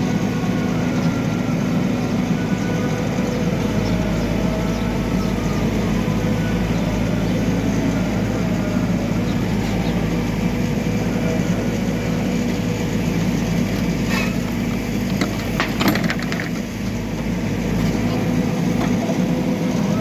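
Backhoe loader's diesel engine running steadily, with a few short knocks about two-thirds of the way through.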